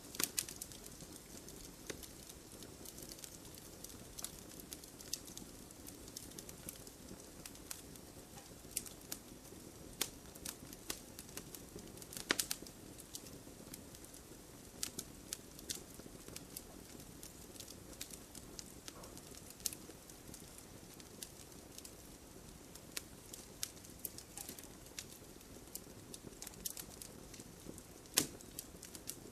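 Fire in a fireplace crackling, with irregular sharp pops and snaps over a soft steady rush of flame. Two louder pops come about twelve seconds in and near the end.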